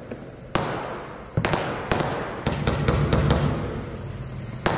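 Blackboxx 'Drama Queen' 56-shot, 25 mm fireworks battery firing: sharp reports of shots and bursts, the loudest about half a second in, around a second and a half in, and just before the end, with a steady rumble between them.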